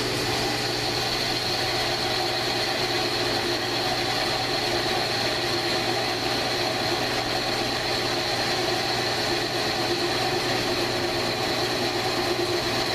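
1942 South Bend lathe running at 475 RPM while a carbide insert turns down the steel of an AR15 bull barrel, a steady mechanical run with a low hum and a high whine from the cut that comes in right at the start.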